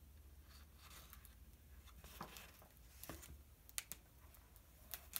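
Near silence with a few faint clicks and soft paper rustles: a picture book's pages being handled.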